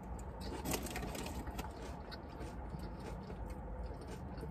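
Quiet eating inside a parked car: faint chewing with scattered small clicks over a steady low hum.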